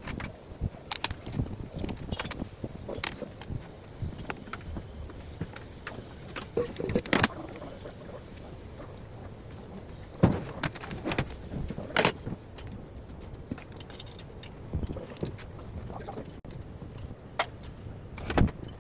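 Scattered metal clinks and knocks at irregular intervals: hand tools and engine parts being picked up, set down and worked on.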